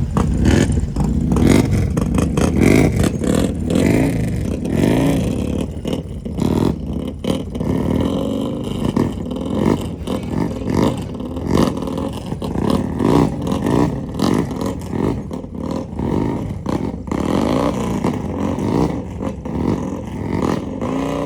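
Motorcycle engine revved hard over and over, its pitch repeatedly rising and falling, with clattering cracks throughout.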